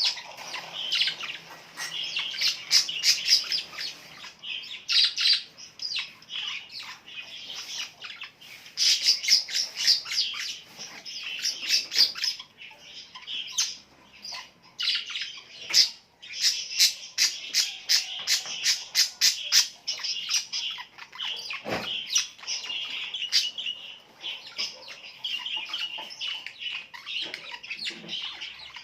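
Birds chirping and squawking, with quick high notes overlapping throughout and several rapid-fire runs of repeated notes.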